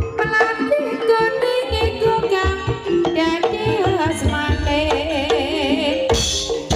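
Banyumasan gamelan music for an ebeg dance: hand-drum (kendang) strokes under metallophone notes, with a singer's wavering melody line over the top.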